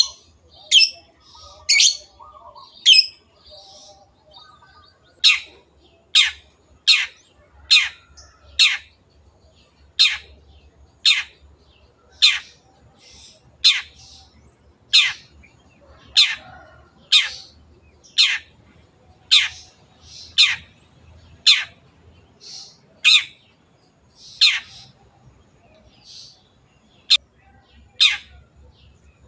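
Long-tailed shrike (cendet) calling over and over: sharp, high notes that each sweep steeply downward, about one a second.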